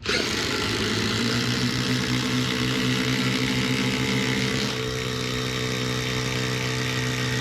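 Two cordless impact drivers running flat out together in a race, hammering steadily under load. The pitch pattern shifts about two-thirds of the way through.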